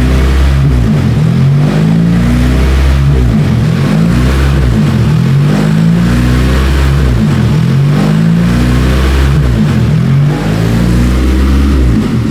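Car engine idling with its revs rising and falling over and over, about every two seconds: an idle surge, setting in before the engine has reached operating temperature.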